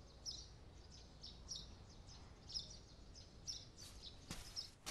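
Faint chirping of small birds: short high calls repeated about twice a second.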